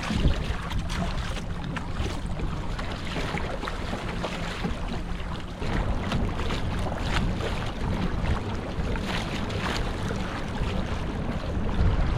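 Wind buffeting the microphone on a kayak, over water lapping against the hull, with a few short knocks around the middle.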